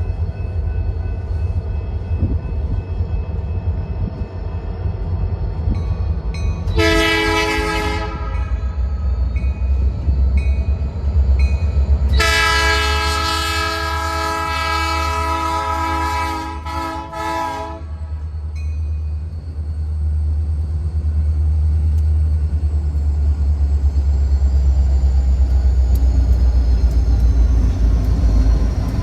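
Diesel freight locomotive, an EMD SD40-2 'snoot nose', sounding its horn, several tones at once: a short blast about seven seconds in, then a long blast of about five seconds starting around twelve seconds in. Under it runs a loud, steady low rumble of the engine and train, which grows louder toward the end as the train comes closer.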